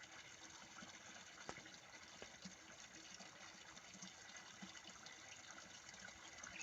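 Faint, steady running water of a small stream or spring, with a couple of light clicks about a second and a half and two seconds in.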